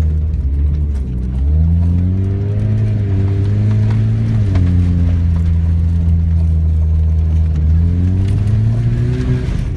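1998 Chevy S-10's four-cylinder engine, through an automatic gearbox, revving as the pickup is driven: its pitch climbs, drops back about four and a half seconds in, holds steady, then climbs again near the end. The truck has a leaking exhaust.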